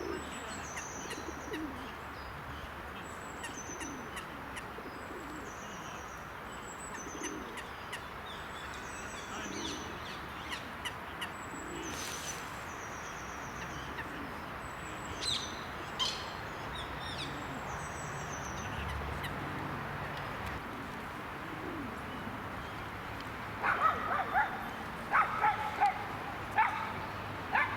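Small birds giving short, high chirps over and over against a steady background hum. About four seconds before the end, a run of loud, sharp animal calls breaks in.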